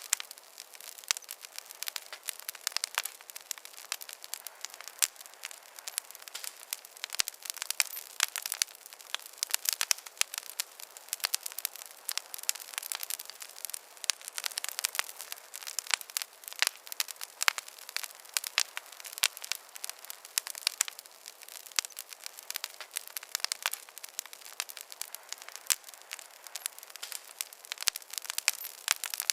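Wood campfire burning with dense, irregular crackles and pops over a soft hiss.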